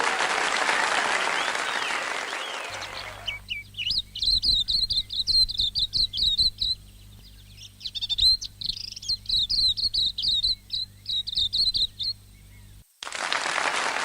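Applause fades out, then a songbird sings a run of rapid, high twittering phrases with a short break about two-thirds through. Applause starts again near the end.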